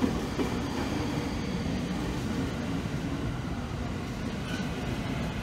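JR East E231 series electric commuter train rolling along a station platform, a steady rumble of wheels and running gear.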